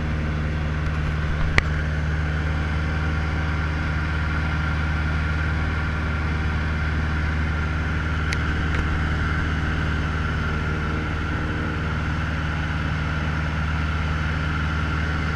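Cessna 150L's four-cylinder Continental O-200 engine and propeller droning steadily at constant power. A sharp click about a second and a half in, and a fainter one about eight seconds in.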